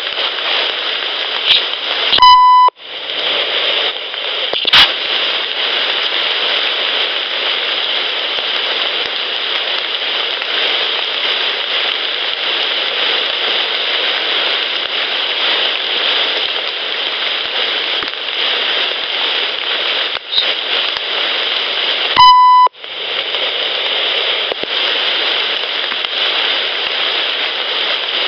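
Steady rain hissing on a field audio recorder's microphone. Two short electronic beeps from the recorder, about two seconds in and again some twenty seconds later, each followed by a brief dropout as its buttons are pressed. A sharp click about five seconds in.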